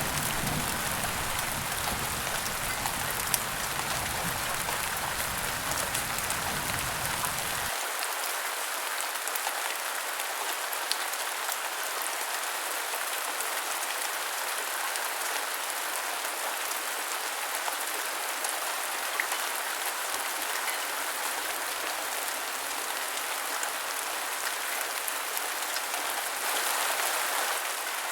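Steady rain falling: a dense, even hiss with scattered drop ticks. A low rumble underneath stops abruptly about eight seconds in.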